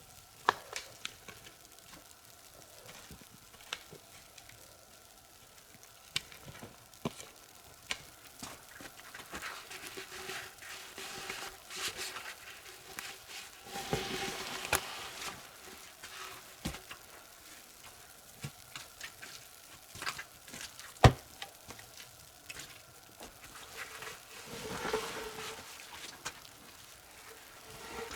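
Food sizzling in a pan over a wood fire, with scattered sharp crackles and clicks. The hiss swells twice, about halfway through and again near the end, and there is one louder crack about two-thirds of the way in.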